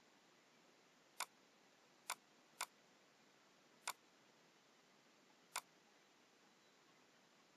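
Five sharp, isolated computer mouse clicks at uneven intervals over a faint hiss: clicks made while selecting objects in AutoCAD.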